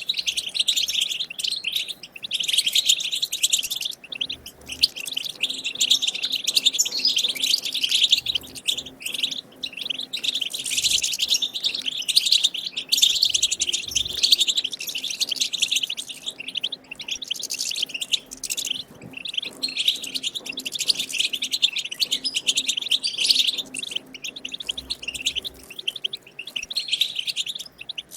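European goldfinch twittering song: a fast, unbroken run of high chirps and trills, interrupted only by short pauses.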